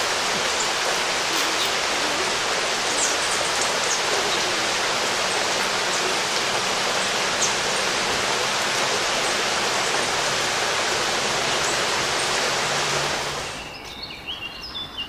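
Steady hiss of rain falling on tree leaves, which the listener first mistook for leaves falling. About thirteen seconds in it drops away sharply, leaving a few faint bird chirps.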